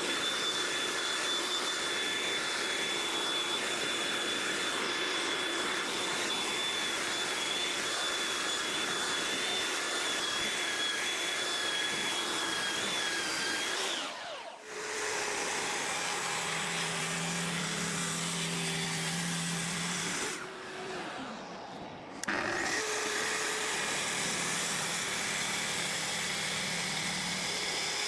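Belt sander running steadily on a wooden workbench top, taking off old glue. The noise dips out briefly about halfway through and quietens again for a couple of seconds later on, then runs on.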